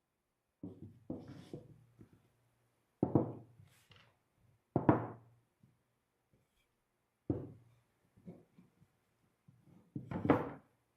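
Wooden knocks from cedar bench parts being handled and tapped together: about seven sharp, irregular knocks and thuds, some doubled, the loudest about five seconds in and near the end.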